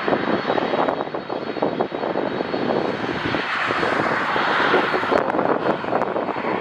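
Jet airliner passing with its engines running loud, over wind buffeting the microphone. The jet noise swells to its loudest about four to five seconds in.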